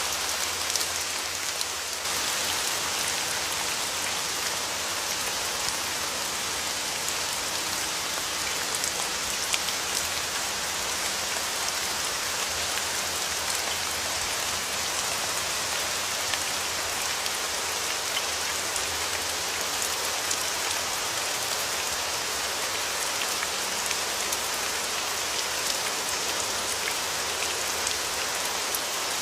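Steady rain falling, a continuous hiss with many fine raindrop ticks on a surface.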